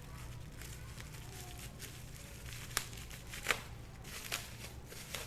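Packaging being handled, crinkling and rustling, with a few sharp crackles about three, three and a half and four seconds in, over a steady low hum.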